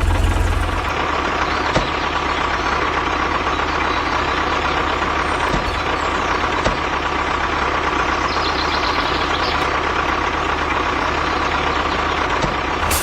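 Tractor engine sound running steadily at idle, a constant low hum with a steady mid-pitched whine over it.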